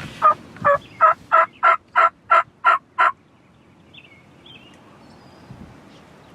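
Turkey yelping: a run of nine loud, evenly spaced yelps, about three a second, that stops about three seconds in.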